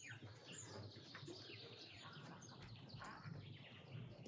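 Small birds chirping faintly: many short, quick notes that slide downward, overlapping one another.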